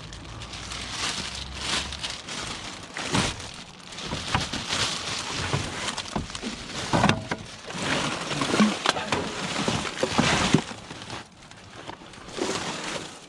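Irregular rustling, scraping and clattering from rummaging through dumped rubbish and scrap by hand, with a few sharper knocks along the way.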